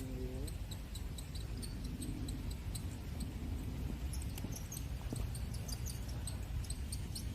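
Insects chirping faintly in short high chirps that repeat irregularly, over a steady low rumble.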